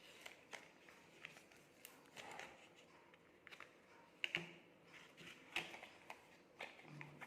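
Earbuds' retail box being opened by hand: faint, scattered clicks, scrapes and rustles of the packaging being handled.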